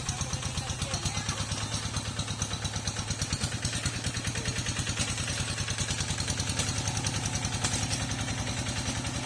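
Tractor engine running steadily while plowing a flooded rice field, a fast, even chugging.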